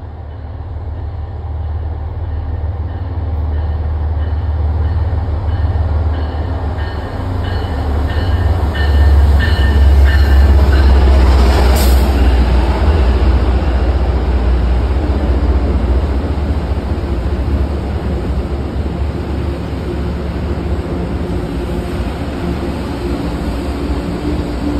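MBTA commuter rail diesel locomotive approaching and passing close by, its engine rumble building to a peak about ten seconds in, followed by bilevel passenger coaches rolling past with steady wheel noise.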